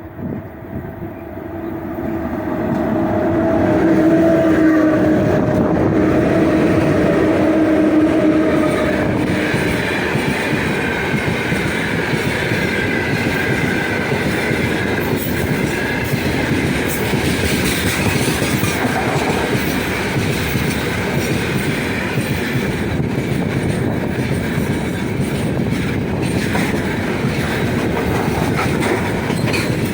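Heavy freight train hauled by 2ES5K "Ermak" electric locomotives, rolling past loudly. The noise swells over the first few seconds with a steady low whine from the locomotives. After that comes the continuous rumble and clatter of the wagons' wheels on the rails, with a higher metallic whine through the middle.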